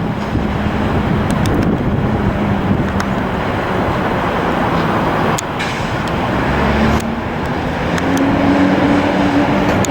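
Loud, steady jet engine noise from an airliner, with a low engine tone that rises in pitch near the end. The sound changes abruptly twice, about halfway through and at about seven seconds.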